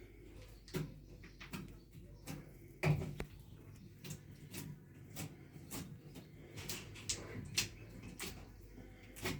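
Irregular clicks and light knocks of hand work and handling, with a louder, deeper knock about three seconds in.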